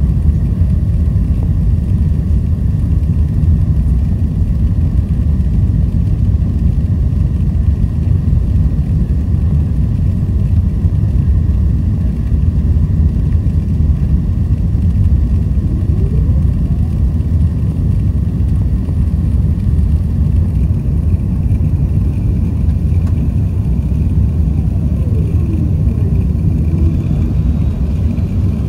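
Jet airliner engines heard from inside the cabin: a loud, steady low rumble, with faint tones sliding in pitch about halfway through and again near the end.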